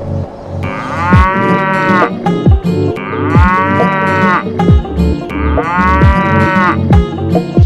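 A cow's moo sounding three times, the same call each time, about every two and a half seconds, over music with a steady kick-drum beat.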